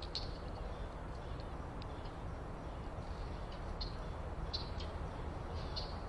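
Small backyard birds giving short, high chirps every second or so over a steady low background rumble.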